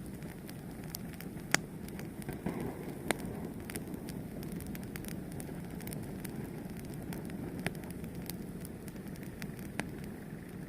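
A fire burning with a steady low rumble and scattered sharp crackles and pops, the loudest about one and a half and three seconds in.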